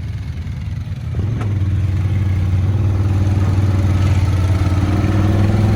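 ATV engine running steadily, picking up about a second in and holding under load, with a brief click or clatter.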